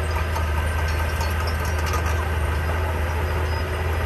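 Diesel engine of heavy earthmoving equipment running steadily with a deep, constant drone, and faint clinks over it.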